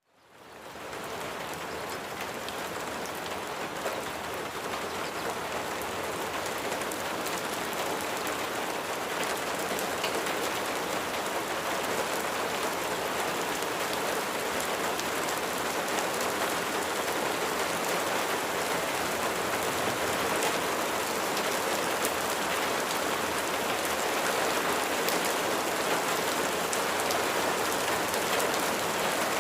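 Steady rain falling, an even hiss sprinkled with faint ticks of single drops. It fades in over the first second and grows slightly louder.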